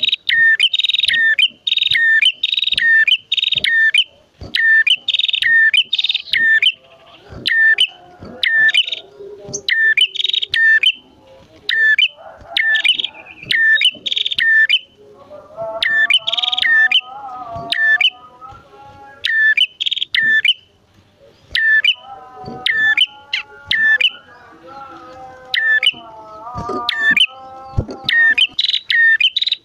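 Prenjak songbirds calling: loud, sharp chip notes repeated about once or twice a second, with a lower, wavering chatter joining about halfway through.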